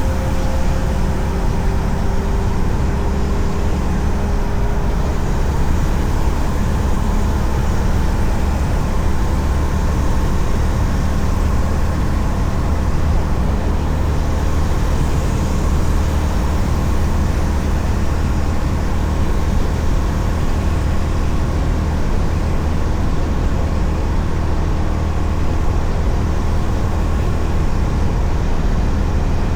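Steady wind and road noise of a Honda CB350RS motorcycle riding at speed, its single-cylinder engine running under a constant low rumble of wind on the microphone.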